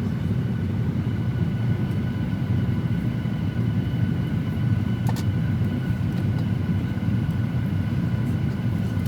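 Steady low rumble of a Boeing 737-800's engines and airflow heard inside the passenger cabin, with faint steady high whine tones over it. A faint click about five seconds in.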